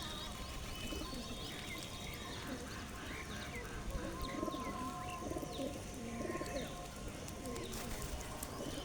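Pigeons cooing repeatedly, with small birds chirping over them.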